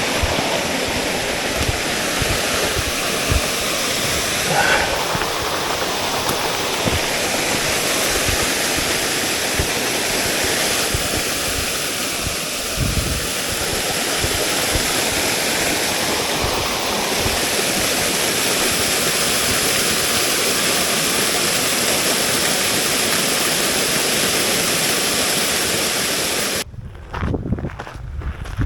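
Small waterfall rushing steadily. It cuts off suddenly near the end, leaving a few low thumps.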